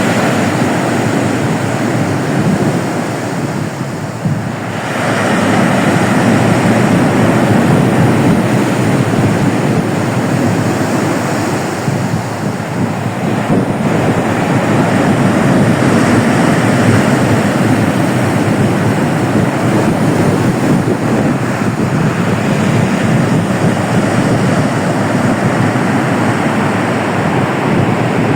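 Black Sea surf breaking and washing on the shore, a continuous loud rush that eases briefly about four seconds in and again around twelve seconds, with wind buffeting the microphone.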